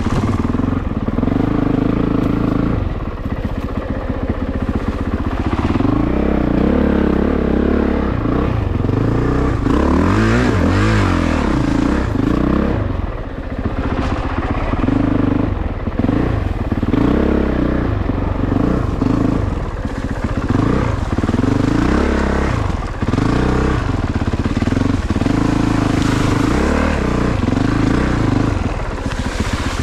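2022 Honda CRF450RX's single-cylinder four-stroke engine running under a rider on trail, its pitch rising and falling again and again as the throttle is worked on and off.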